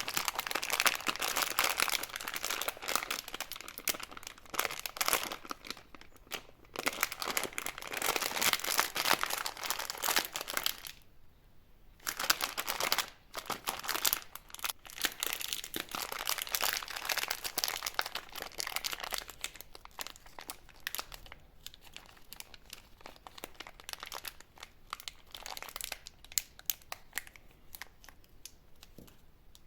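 Plastic candy wrappers crinkling and tearing as sweets are unwrapped, with a short pause about eleven seconds in and softer crinkling toward the end.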